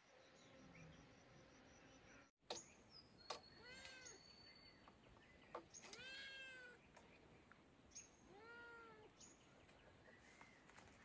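A cat meowing faintly three times, each meow rising and then falling in pitch, with a few soft clicks and knocks in between.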